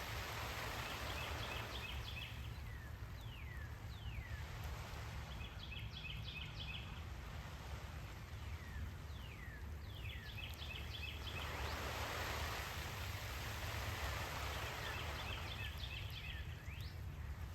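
Water spray hissing from a garden hose onto plants, swelling near the start and again about two-thirds of the way through, under a steady low rumble. A songbird repeats the same short song four times, about every four to five seconds: a quick trill followed by a few downward-sliding whistles.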